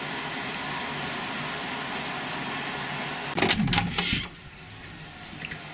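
Ausclimate Cool Seasons Premium desiccant dehumidifier running steadily on its high setting, its fan giving an even whooshing noise. About three and a half seconds in comes a brief clatter of knocks, after which the running noise is quieter.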